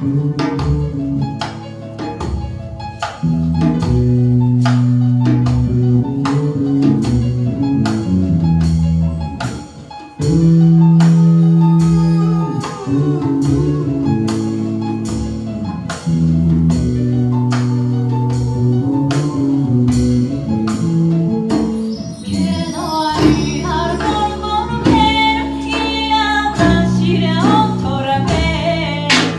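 Live band music: a bass line under a steady percussion beat, with a higher wavering melody line joining about 22 seconds in.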